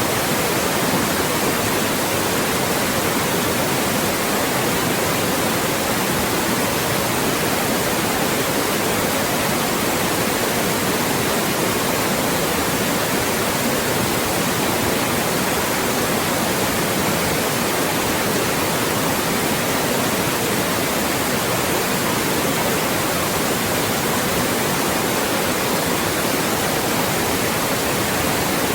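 Loud, steady white noise: an even hiss across the whole range, with little in the deep bass, made to mask voices.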